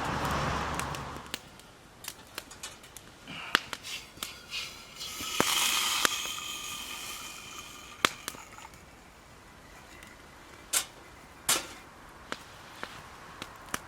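Wood campfire crackling, with scattered sharp pops and snaps at irregular intervals. About five seconds in comes a short hiss with a thin whistle-like tone.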